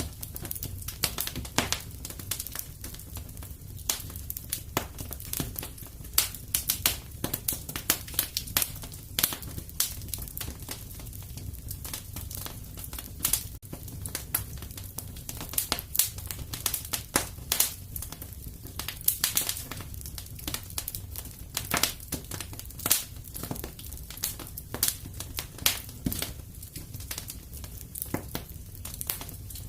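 Wood fire crackling in a fireplace: dense, irregular snaps and pops over a steady low rumble of the burning fire.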